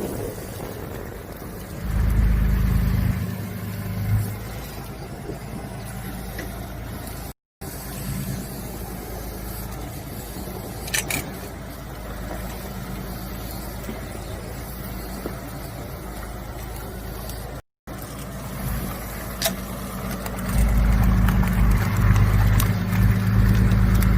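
An engine running with a steady low hum, louder for a couple of seconds near the start and again over the last few seconds, with a few faint clicks; the sound cuts out completely for a moment twice.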